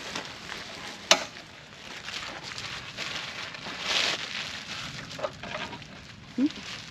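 Crackling, rustling handling noise as a new folding miter saw stand and its packaging are unpacked and handled, with one sharp click about a second in.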